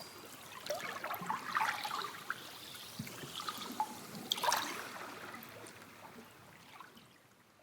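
Water trickling, with small irregular splashes, fading out near the end.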